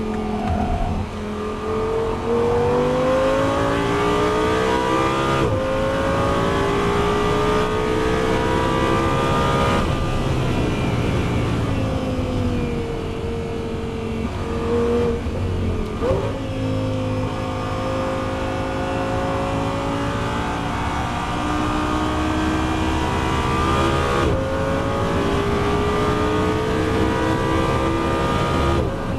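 Audi R8's V10 engine pulling hard on track. Its pitch climbs in each gear and drops sharply three times as it shifts up, then sags for a few seconds near the middle before climbing again.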